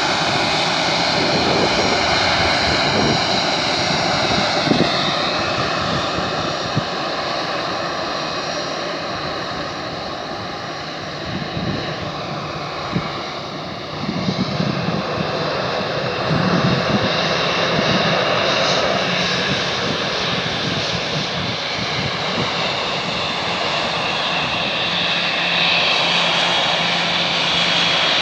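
Airbus A321 airliner's jet engines running at low power as it taxis: a steady rush with a high whine that shifts in pitch a few times.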